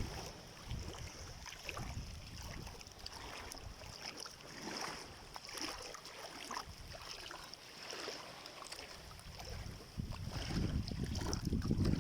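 Sea water washing and sloshing at the shore with wind buffeting the microphone, the rumble growing louder about ten seconds in.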